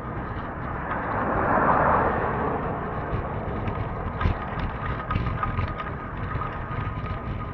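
Steady rushing noise of travel, with wind over the microphone, swelling to its loudest about a second in. From about four seconds in it is broken by short rattling knocks.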